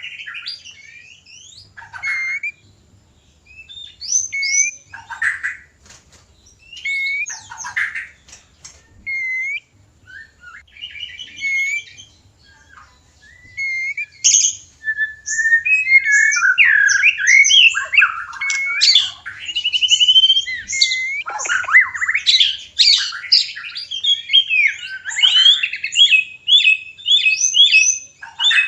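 White-rumped shamas giving mating calls and song. Short whistled and chattering phrases with gaps come first. From about halfway, a dense, unbroken run of song takes over, ending in quick repeated notes.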